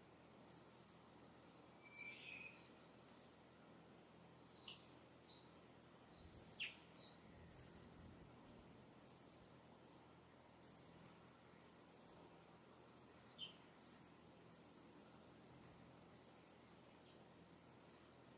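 Wild birds calling: a short high call repeated about once every second or so, with a few lower chirps between, then longer high buzzing trills near the end.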